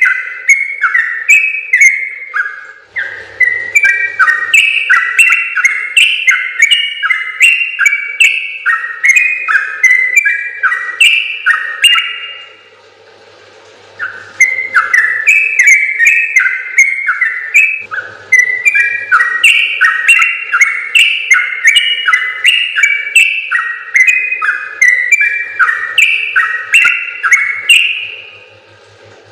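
Yellow-vented bulbul (trucukan) singing a long, rapid run of bubbly, stepped whistled notes, delivered in long phrases with a short pause about twelve seconds in and another near eighteen seconds.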